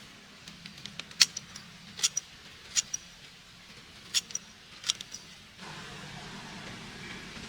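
A series of sharp metallic clinks, about seven in four seconds, some in quick pairs. A steady background noise comes in near the end.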